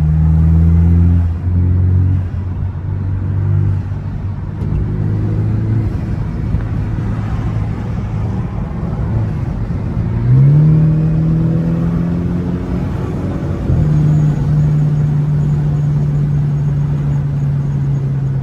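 BMW F32 428i's turbocharged four-cylinder engine with an aFe cold-air intake, heard from inside the car while driving. The engine note wavers and falls over the first few seconds, climbs sharply as the car accelerates about ten seconds in, dips briefly at a gear change near fourteen seconds, then holds steady.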